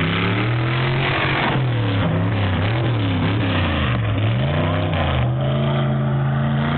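Mega mud truck engine revving up and down repeatedly while working through mud. The pitch swings several times in the first four seconds, dips and climbs again about four seconds in, and then holds a high steady note.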